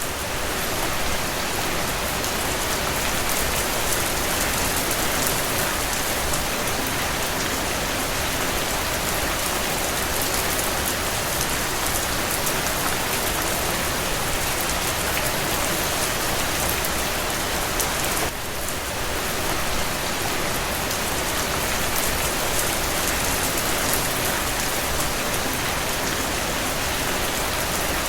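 Steady rain falling, a dense patter of drops, with a brief dip in level about two-thirds of the way in.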